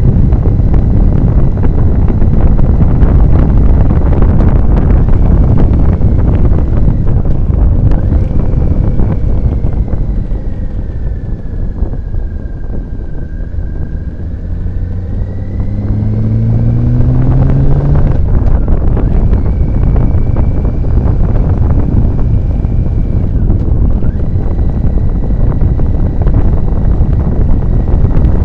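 Wind noise buffeting the microphone of a moving motorcycle, covering the engine. Midway the wind eases as the bike slows. Then the engine's note rises as it accelerates for a couple of seconds, and the loud wind rush comes back.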